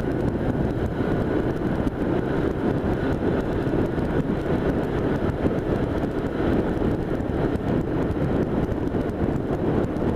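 A 1978 Honda Hawk 400's parallel-twin engine runs steadily under way, with wind rushing over the microphone.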